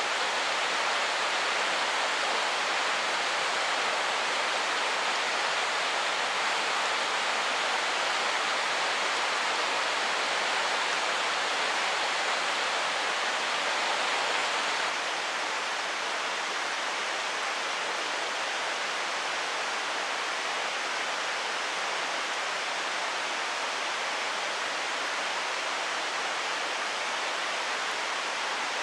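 Mountain stream rushing over rocks, a steady even rush of water that drops slightly in level about halfway through.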